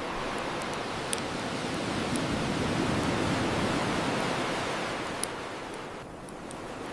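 Ocean waves washing onto a shore: a surge that swells over the first few seconds and draws back near the end. Two sharp pops from a crackling bonfire come through the wash, about a second in and again after five seconds.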